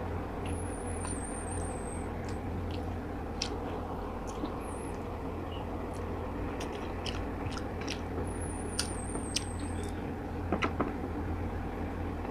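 A person chewing steamed fish and rice eaten by hand, with scattered soft mouth clicks and smacks over a steady low hum.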